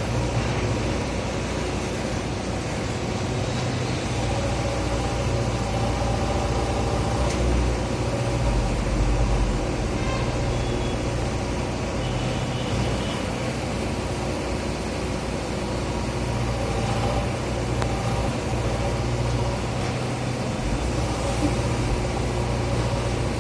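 A JCB digger's diesel engine running steadily as it works, getting a little louder for a moment about eight to ten seconds in.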